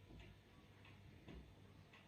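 Near silence: room tone with faint, soft ticks coming roughly every half second.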